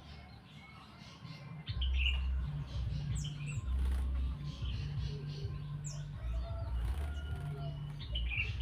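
Grey-cheeked bulbul (cucak jenggot) flapping its wings as it bathes, with short high chirps and a few quick falling calls. A stop-start low rumble runs underneath, loudest from about two seconds in.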